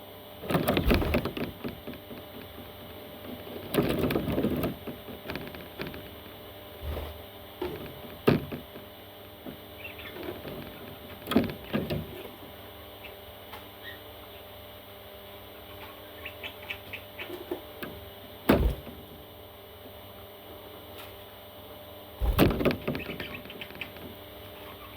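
Rustling and handling noises in bursts, with a few sharp knocks, and faint short chirps from parrot chicks in the middle.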